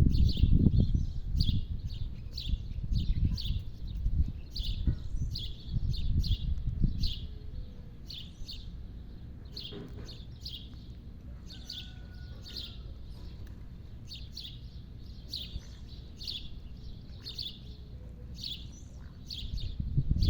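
Bird calling in short, repeated chirps, about one or two a second, over a low rumble that is loudest in the first seven seconds and comes back near the end.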